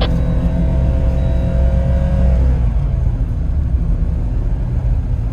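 Off-road 4x4's engine running under throttle as it works through a trail obstacle, with a steady whine that drops in pitch about two and a half seconds in as the revs come down.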